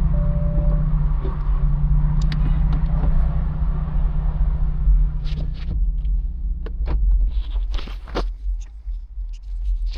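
A car engine running steadily, then switched off about five and a half seconds in, followed by a series of sharp clicks and knocks.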